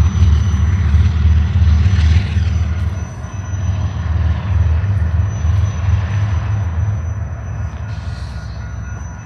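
BNSF freight train passing close by: a heavy low diesel rumble that is loudest for the first three seconds as the locomotives go past, then eases as the cars roll by.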